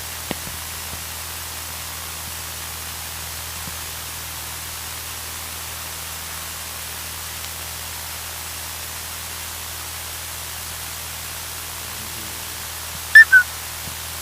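Steady hiss and low hum of a light aircraft's radio and intercom audio feed between transmissions, with two short, loud blips near the end.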